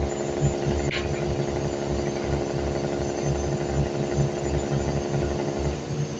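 Machinery engine running with a steady hum over a low, pulsing throb, with one sharp click about a second in; the higher part of the hum drops away shortly before the end.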